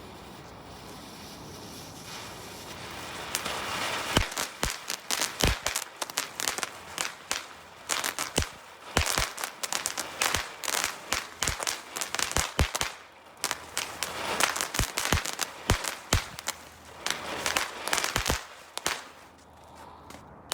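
Firecrackers going off in a car's exhaust pipe: a rising hiss, then a long run of sharp, irregular bangs in quick clusters from about four seconds in, stopping shortly before the end.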